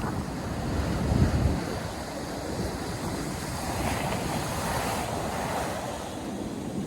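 Sea surf breaking on a sandy beach, waves washing in continuously, with a louder low surge about a second in. Wind buffets the microphone.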